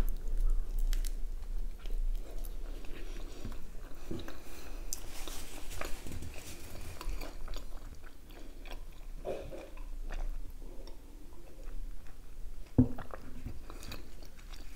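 Close-up mouth sounds of a person biting into and chewing a chicken shawarma wrapped in soft lavash, with small wet clicks throughout. A single sharp knock stands out about 13 seconds in.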